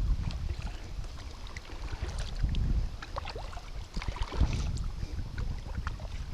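Wind buffeting the microphone in gusts while afloat in a kayak, with scattered small clicks and knocks.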